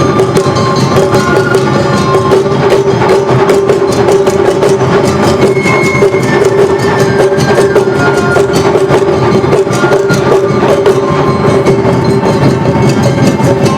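Awa odori narimono band playing: taiko drums and a clanging hand gong keep up a fast, driving dance rhythm under held melody notes.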